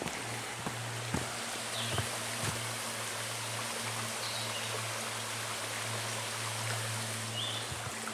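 A rushing mountain brook: a steady, even wash of flowing water. A few faint, short, high chirps sound over it.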